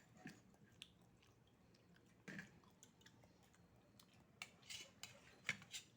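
Faint eating sounds: someone chewing oysters, with short clicks and smacks scattered through, a cluster of them near the end.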